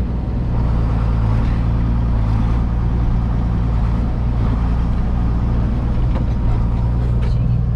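1976 John Deere 4430 tractor's six-cylinder 404 diesel engine running steadily, heard from inside the cab.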